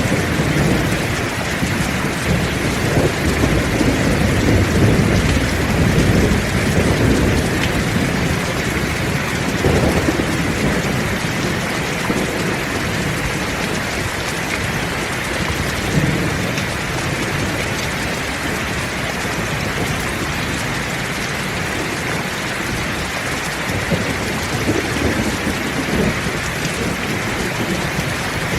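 Heavy rain falling steadily, with low rumbles of thunder rolling through. The rumbles are strongest in the first third and fainter later on.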